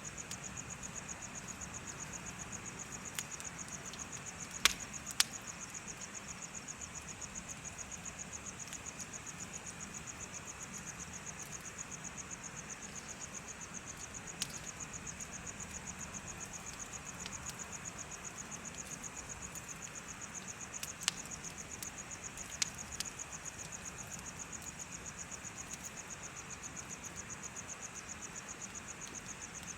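Insects chirping in a fast, steady pulse, over a bonfire crackling, with a few sharp pops from the fire, about five seconds in and again around twenty-one to twenty-three seconds.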